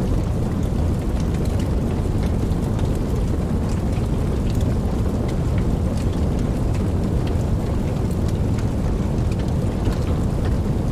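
Steady rain with many scattered sharp drop ticks over a continuous deep low rumble. There is no distinct thunderclap; the level stays even throughout.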